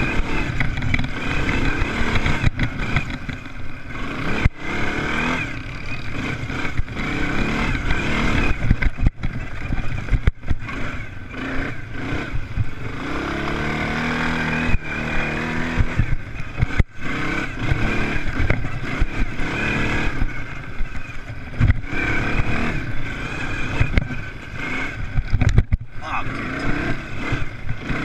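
Motocross race engines revving and running hard, several at once, with one engine passing close about halfway through, its pitch rising and falling.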